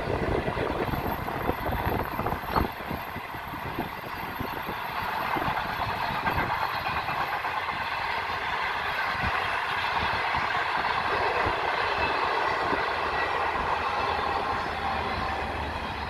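The Ghan's stainless-steel passenger carriages rolling over a girder railway bridge: a steady rumble, with wheels clacking sharply over rail joints in the first few seconds and easing as the last carriage passes near the end.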